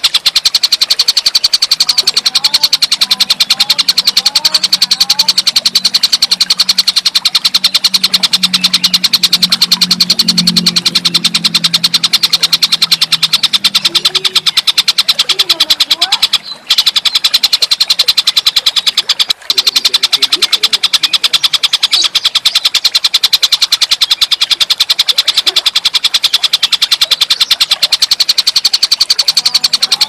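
Loud, continuous recording of a tengkek buto's call used as song tutoring: a fast, unbroken, high-pitched buzzing trill. It cuts out for an instant twice, a little after the middle, and there is a low hum under the first half.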